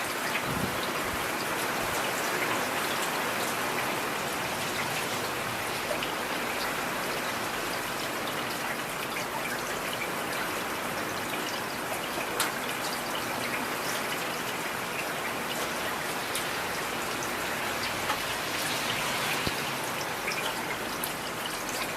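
Heavy rain falling steadily, with individual drops ticking sharply through the hiss and one sharper tick about halfway through.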